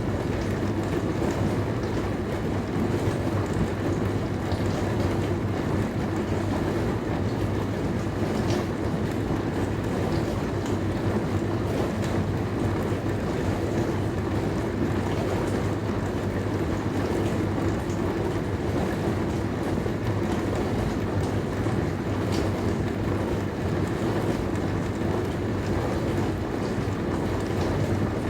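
Dishwasher running mid-cycle: a steady, unchanging hum from its wash pump under the even rush of water spraying inside, with a couple of faint ticks.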